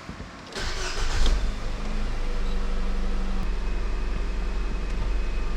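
Nissan Serena's four-cylinder petrol engine cranked by the starter and catching after about a second, then settling into a steady idle, running on newly fitted spark plugs and ignition coils.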